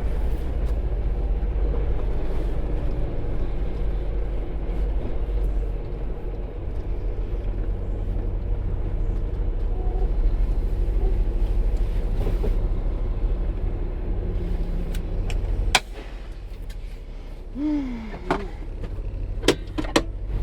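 Semi-truck's diesel engine running with a steady low rumble inside the cab as the truck is manoeuvred. About three-quarters through the rumble drops sharply with a sharp click, and a few more clicks follow.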